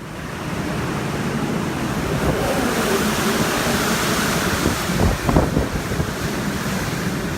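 Strong typhoon wind rushing and gusting, buffeting the phone's microphone with a low rumbling flutter that grows gustier in the second half. The sound fades in over the first second.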